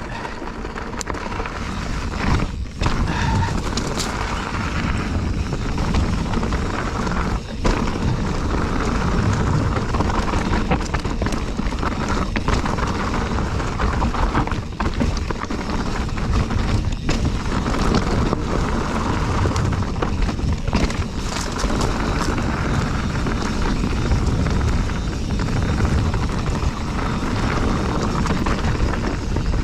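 Mountain bike descending rocky singletrack: steady rushing ride noise with frequent knocks and rattles as the tyres and frame go over rocks.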